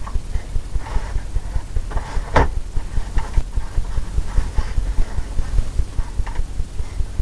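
Paintbrush dabbing and stroking on a canvas, with a steady run of dull low thumps and one sharper tap about two and a half seconds in.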